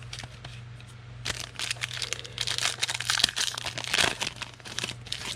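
Trading card pack wrapper being torn open and crinkled by hand, with dense crackling starting about a second in.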